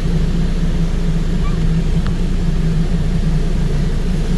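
Touchless automatic car wash at work, heard from inside the car: a steady low drone with a hiss of spray over it as the next chemical is applied to the body.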